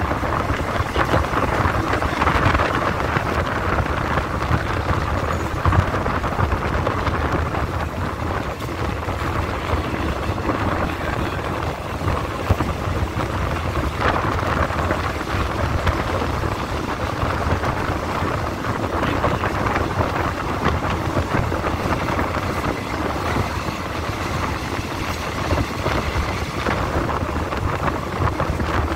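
Steady running noise of a moving passenger train heard through an open carriage window: wheels on the rails and the rush of air past the car, with wind buffeting the microphone.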